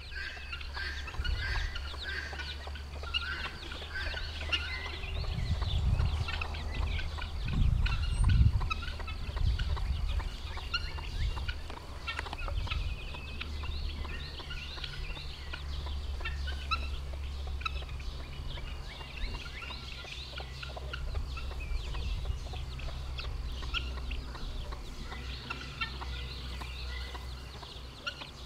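Week-old chicks peeping in many short, high chirps throughout, with the mother hen clucking low among them. A steady low rumble runs underneath.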